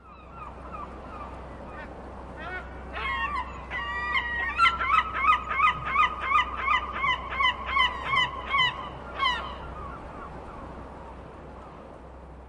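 A large bird, such as a goose, giving a series of short honking calls. They start sparse a couple of seconds in, run on at about three calls a second, and stop a few seconds before the end.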